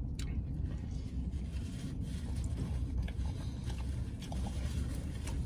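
A man chewing a mouthful of burrito, with soft rustles of its paper wrapper in his hands, over a steady low hum.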